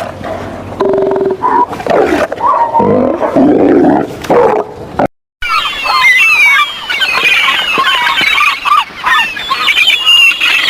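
Two recorded animal sound clips back to back. First come low, pitched calls for about five seconds. After a brief silent cut, a different recording of many quick, high chirping calls overlaps densely to the end.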